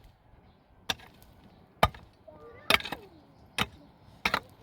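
Sharp, short knocks or chopping strikes, repeating at about one a second.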